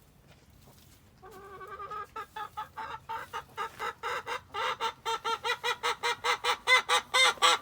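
Hen cackling: a warbling start about a second in, then a steady run of short clucks, about four a second, getting louder and louder.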